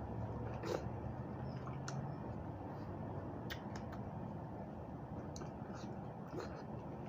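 Close-up mouth sounds of chewing raw vegetables: a handful of sharp crunches scattered over a steady low hum.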